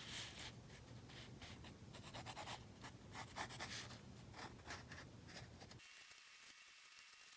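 Quiet, irregular scratching strokes of a drawing tool on sketchbook paper, stopping about six seconds in.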